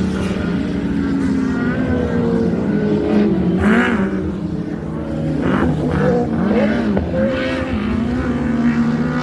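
Racing sidecar outfits' engines running at speed on the circuit: several engines at once, their pitch rising and falling as they accelerate and shift.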